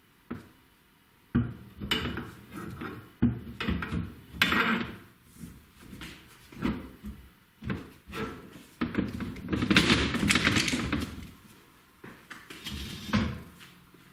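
Metal clunks, knocks and scraping from a motorcycle's leading-link front fork being fitted into the steering head, with a longer scraping rub about nine seconds in.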